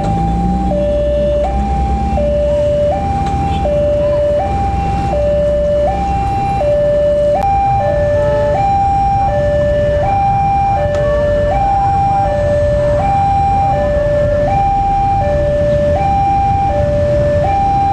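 Railway level-crossing warning alarm sounding a steady two-tone hi-lo signal, switching tones about every 0.7 seconds, the warning that a train is approaching the crossing. A low rumble runs underneath during the first six seconds or so.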